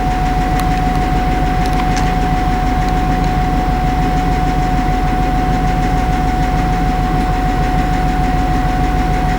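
A stationary train idling at the platform: a steady low engine rumble with one constant high-pitched whine running over it and a few faint clicks.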